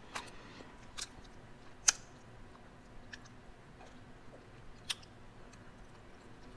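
A person eating: quiet chewing with a few scattered sharp clicks about a second apart, while a spice-blend shaker is tipped and shaken over the plate.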